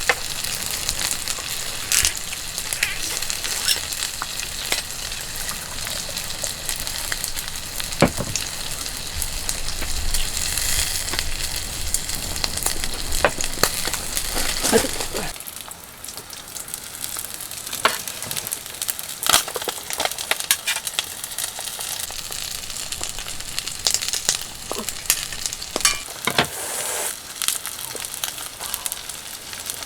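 Food sizzling and frying in a pan over a camp stove, a steady hiss with scattered sharp clicks; it turns quieter about halfway through.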